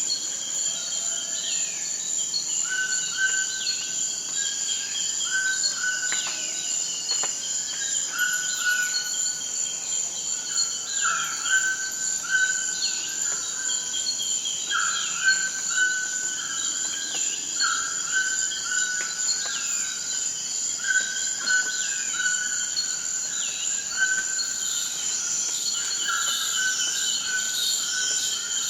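Forest ambience: a steady, high-pitched insect drone, typical of crickets, under a chorus of repeated short calls and quick falling bird calls.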